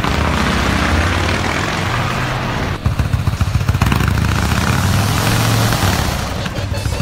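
Yamaha Warrior 1700's air-cooled V-twin engine idling through its exhaust with a steady low rumble, turning rougher and louder for about a second around three seconds in.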